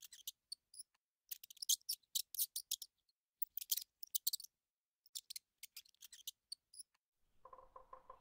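Mice squeaking: clusters of very short, high-pitched squeaks and scratchy clicks with silent gaps between them. Near the end a rapid, evenly repeated pulsing takes over, about five beats a second, from a red-headed woodpecker.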